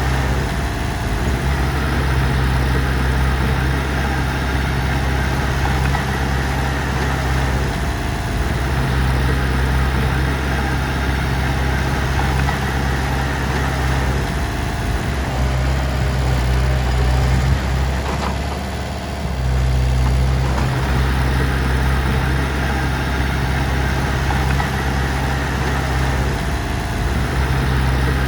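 Heavy diesel engine running steadily at low revs with a deep, even drone; the note falters briefly about two-thirds of the way through.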